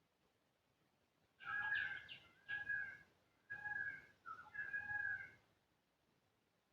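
An animal calling five times in quick succession: short, clear-pitched calls, the last two nearly joined.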